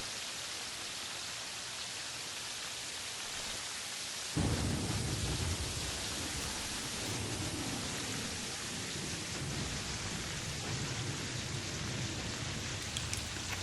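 A steady hiss of noise, with a low rumbling noise joining suddenly about four seconds in and running on.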